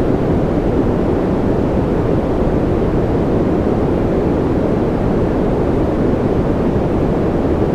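Steady sleep-aid white-noise track: a deep, even rushing hiss with most of its weight low, unchanging throughout.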